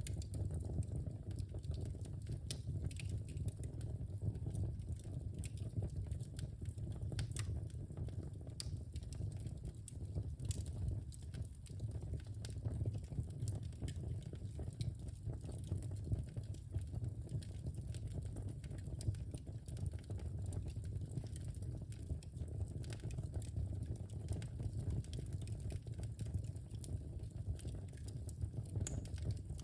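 Wood fire in a fireplace crackling, with irregular sharp snaps and pops over a steady low rush of burning.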